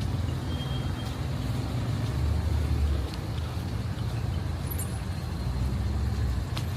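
Street traffic: a steady low rumble of vehicles, swelling as one passes about two seconds in and again near the end.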